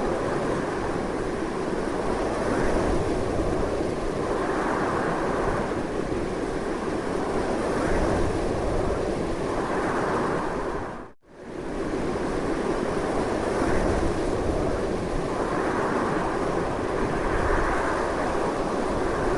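Strong wind blowing steadily, a dense rushing noise that swells and eases slowly. About halfway through it dips to near silence for a moment and comes straight back.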